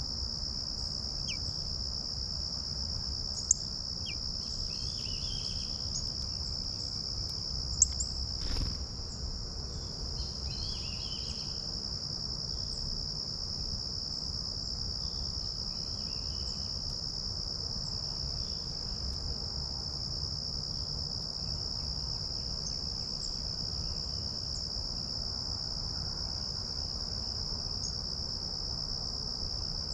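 Insects droning in one steady, unbroken high-pitched note, with a few short bird chirps scattered through it and a single sharp click about eight seconds in, over a low rumble.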